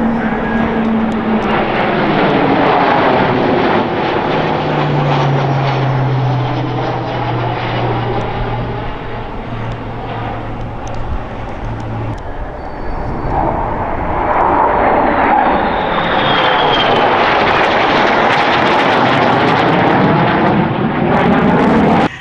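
Military aircraft flying low overhead, loud and continuous, with the engine pitch falling as they pass. A second pass swells up in the second half and cuts off suddenly at the end.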